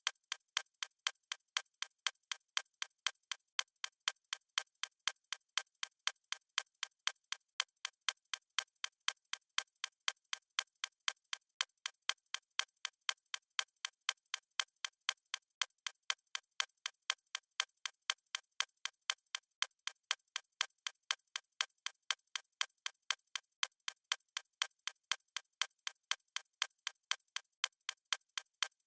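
Fast stopwatch ticking sound effect: sharp, crisp ticks at a steady, even rhythm of several a second, with no bass.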